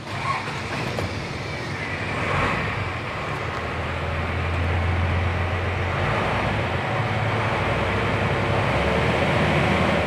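Isuzu 6HE1 turbo diesel truck engine starting and running steadily, heard from inside the cab, with no knocking or banging: the knock came from the failed air compressor, which has just been replaced.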